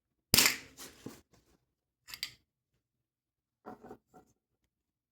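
Apple TV Siri Remote struck hard: one loud sharp crack with a short crunch, then a few smaller cracking and clicking sounds as the remote gives way.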